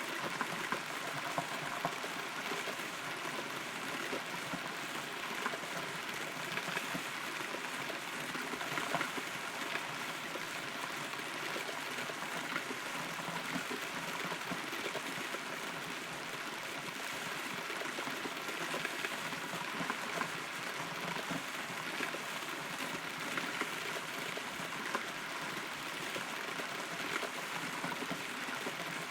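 Rain falling, heard from inside a hollow rotten tree trunk: a steady patter studded with many small, irregular drop ticks.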